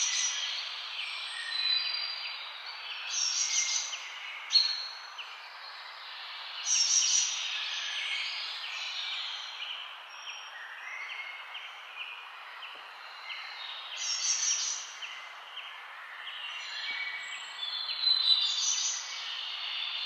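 Julienned carrots and green vegetables sizzling in a hot frying pan as a wooden spatula stirs and scrapes them, the sizzle swelling every few seconds as the food is turned, with one sharp knock about four and a half seconds in.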